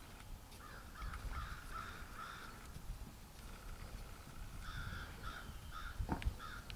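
A bird calling in two runs of short repeated notes, the first starting about a second in and the second around five seconds in.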